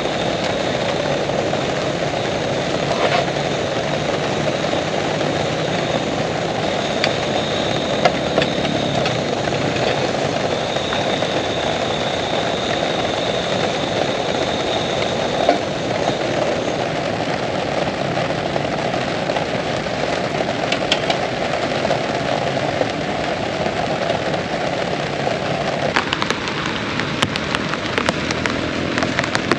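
Heavy rain falling steadily, a constant hiss, with more separate drops ticking in from near the end.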